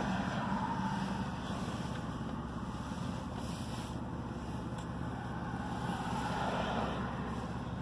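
Steady low rumble inside a stopped car's cabin, with the engine idling.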